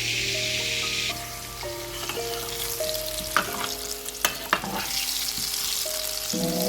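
Food deep-frying and sizzling in hot oil as it is stirred, with a few sharp clicks of a utensil against the pan about halfway through.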